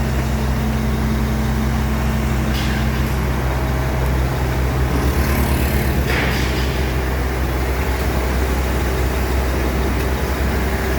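Heavy diesel engines of a Caterpillar 308 CR excavator and the flatbed truck carrying it, running steadily, with short hisses about two and a half and six seconds in.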